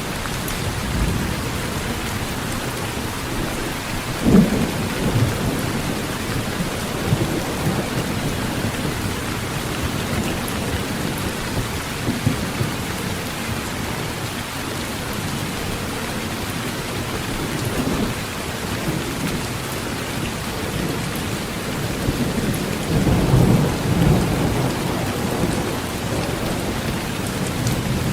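Heavy rain drumming steadily on a tin roof, with low rolls of thunder swelling up, the strongest about four seconds in and again toward the end.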